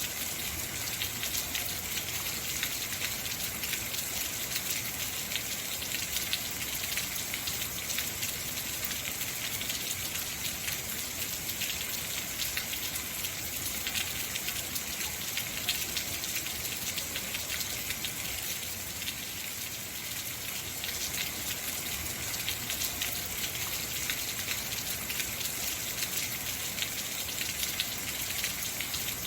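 Heavy rain falling steadily, a dense hiss of many drops pattering on surfaces.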